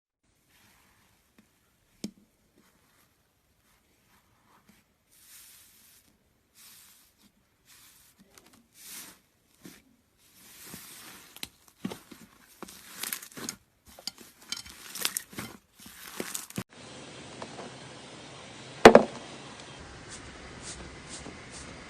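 Slime being handled by hand: a run of small sticky crackles and pops that grows busier, then stops. A few seconds later, over a steady faint hiss, comes one loud sharp knock.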